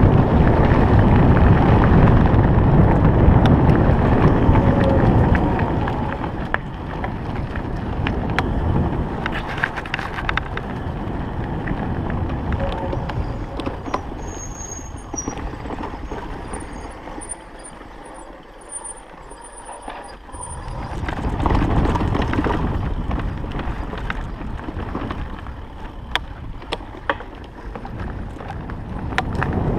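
Riding an electric enduro bike over a forest dirt road: wind buffeting the microphone and tyre rumble, with scattered knocks and rattles from the bike over bumps. The noise eases for a few seconds past the middle, then builds again.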